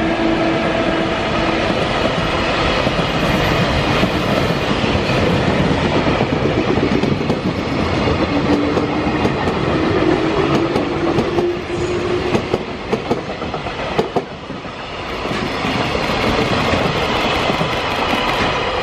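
Trains passing at close range: the wagons of a long container freight train rumble and clatter over the rail joints. A Meitetsu 6500-series electric train goes by on the near track midway, its motor whine rising in pitch, with a run of sharp wheel clicks just after.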